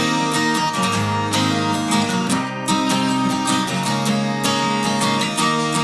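Background music: acoustic guitar strumming chords at a steady rhythm, the instrumental intro of a song.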